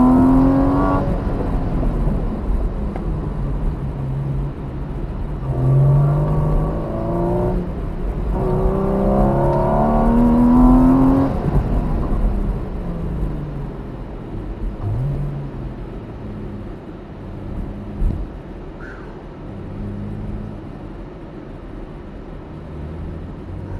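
Porsche Cayman 981's flat-six engine heard from inside the cabin, pulling hard in several rising surges during the autocross run, then settling to a low, steady, quieter run as the car slows after the finish. A single sharp click comes near the end.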